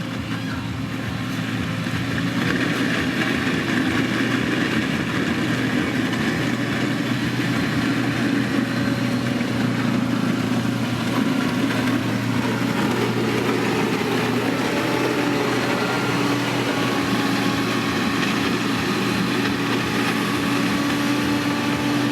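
Diesel engine of heavy road-building machinery running steadily, growing louder over the first few seconds, with a hum that grows stronger past the middle.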